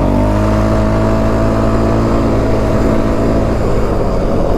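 Off-road vehicle engine running flat out at high revs, its pitch having climbed and now held steady.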